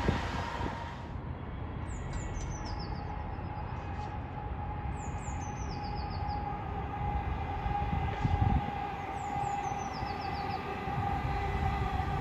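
Freight train running by with a steady low rumble and a held engine tone; the rumble is louder at first and eases after about a second. A small bird sings a short falling trill four times over it.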